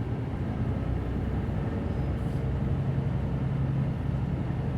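Cabin sound of a Hino Blue Ribbon City Hybrid city bus under way: a steady diesel engine drone with road noise, pulling a little harder and louder about two seconds in.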